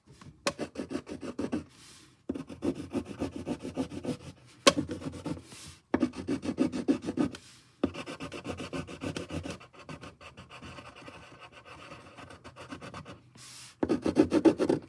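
Coloured pencil scribbling on paper in rapid back-and-forth strokes, in several spells with short pauses, lighter for a few seconds past the middle.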